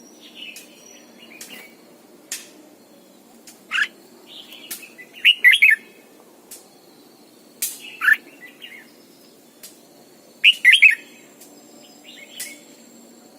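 Red-whiskered bulbul singing short, loud, warbled phrases, one every two to three seconds.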